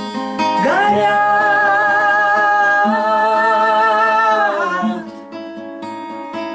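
A voice sings one long held note over strummed acoustic guitar, sliding up into it about half a second in and letting go near five seconds; the guitar carries on alone, more quietly, to the end.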